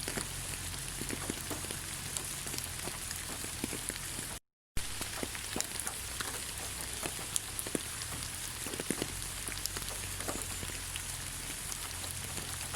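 Steady rain falling on leaves: a dense, even hiss dotted with many separate drop taps. The sound cuts out completely for about a third of a second a little over four seconds in.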